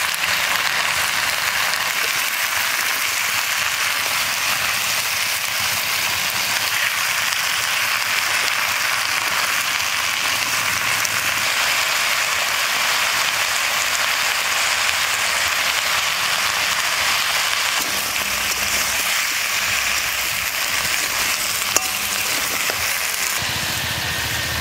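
Malabar spinach, potato and pumpkin pieces sizzling steadily in hot oil in a metal kadai, with a single sharp click near the end.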